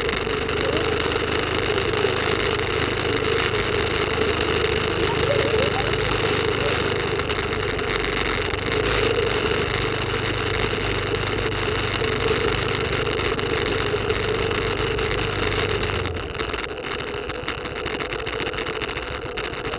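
Small motorcycle engine running at low speed as it rides slowly, then switched off about sixteen seconds in, leaving a steady hiss.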